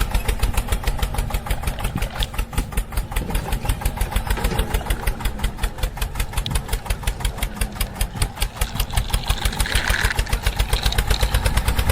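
Small engine of a homemade mini tractor running steadily with a rapid, even putt-putt while it drives.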